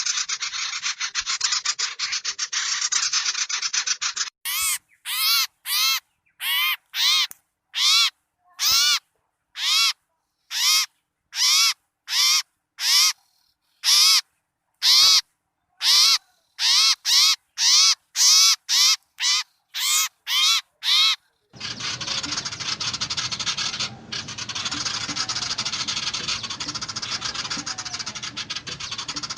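Small birds calling, from a bird-lure recording. First comes a dense, harsh chatter; from about four seconds in, a run of separate short harsh calls, one to two a second; from about three-quarters of the way through, dense chatter again.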